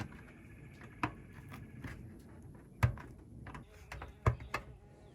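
Wire mesh being handled and its cut tabs bent over by hand to fasten a patch piece into a wire mesh cage: a few sharp, separate metallic clicks and taps, unevenly spaced.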